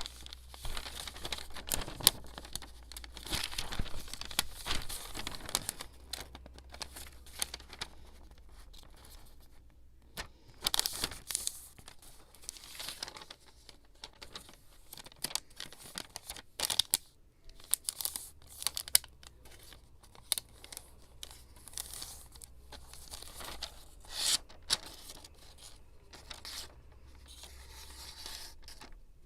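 Paper being torn and handled close up during scrapbooking: tearing and crinkling in irregular bursts, with small clicks and short pauses between.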